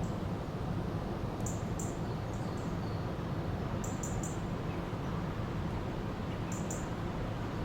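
A river flowing with a steady rushing sound, while small birds give short, very high chirps in quick clusters of two or three, about three times.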